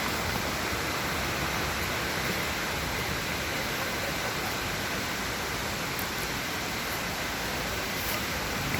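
Steady rush of falling water from a nearby waterfall, an even noise with no breaks.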